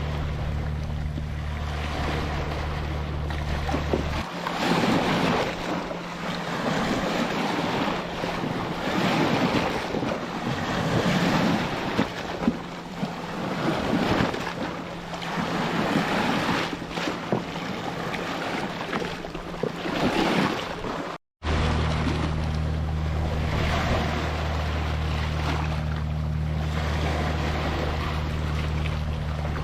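Ocean surf washing in repeated surges. A steady low hum runs under it for the first few seconds, stops, and returns after a brief dropout about two-thirds of the way through.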